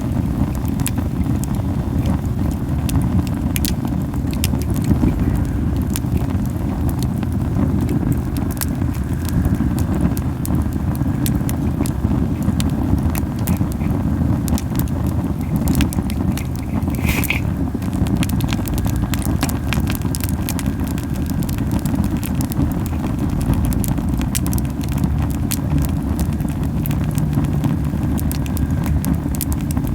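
A camellia-wood campfire burning hard, with a steady low fluttering rumble of flames and frequent sharp crackles and pops throughout. One brighter pop comes just past the middle. The strong rumble comes from the fire burning very hot.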